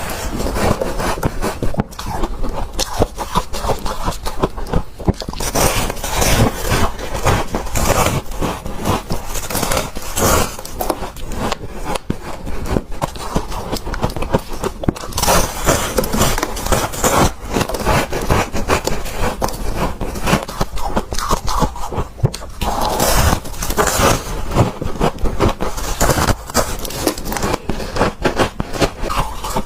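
Close-up crunching and chewing of huge chunks of freezer frost, a dense run of irregular crackles and squeaky crunches with bite after bite.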